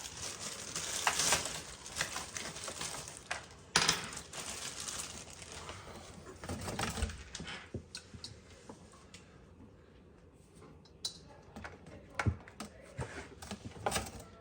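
Small hard parts and tools being handled: irregular clicks and light rattles, with a sharp knock about four seconds in, growing sparser and quieter toward the end.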